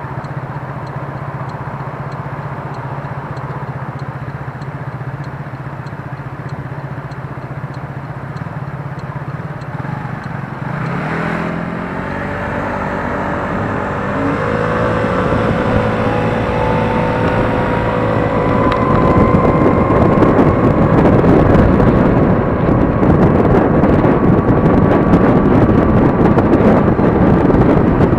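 Gogoro 2 electric scooter's motor whine rising in pitch as it pulls away about ten seconds in and gathers speed, after a steady low hum of traffic while stopped. Wind rushing over the microphone grows louder as the speed builds.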